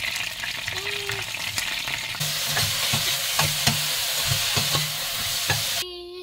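Food sizzling in hot oil as chicken pieces fry in a pan. About two seconds in the hiss turns louder, and a spatula knocks and scrapes against a steel pot every half second or so as shrimp are stirred and sautéed.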